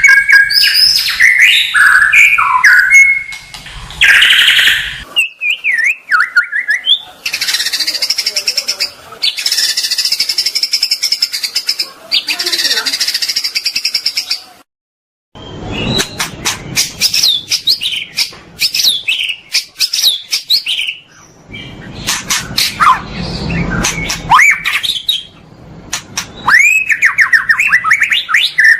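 Recorded songbird song played as a masteran (tutor song) for a white-rumped shama. It is a string of varied whistled phrases with sliding notes, harsh buzzy rattles and rapid clicking trills, in separate bouts with short breaks.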